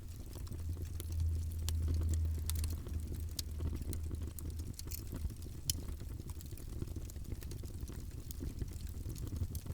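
Wood fire burning in a fireplace: scattered sharp crackles and pops over a low steady rumble of the flames, which swells for a couple of seconds about a second in.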